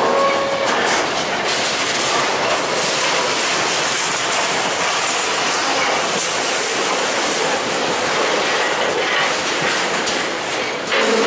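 A train running past on the rails, a steady loud rumble and rush of wheels on track. A pitched humming tone sounds in the first second and comes back near the end.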